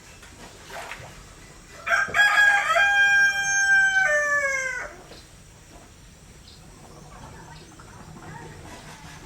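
A rooster crowing once, about two seconds in: a call of nearly three seconds held on one pitch, then falling away at the end. A faint steady hiss lies underneath.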